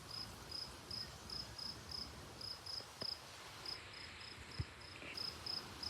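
Outdoor insect chirping, probably crickets: short, high chirps repeating about three times a second. One soft knock sounds a little over four and a half seconds in.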